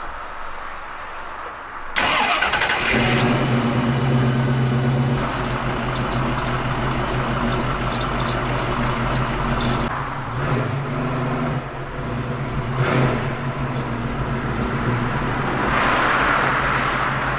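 Harley-Davidson V-twin motorcycle engine starting about two seconds in, then running steadily, with a few short blips of the throttle.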